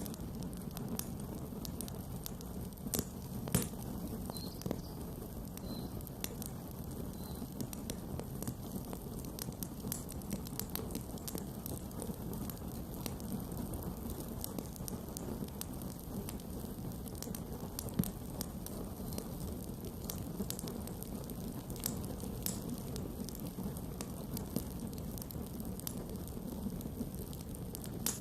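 Campfire burning: a steady low rush under frequent small crackles and pops, with a few sharper pops about three seconds in and again about eighteen seconds in.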